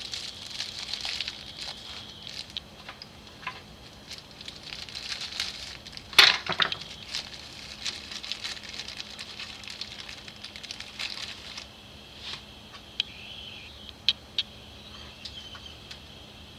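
Small metal carburetor parts and tools being handled on a workbench: scattered light clicks and clinks, with one louder clack about six seconds in.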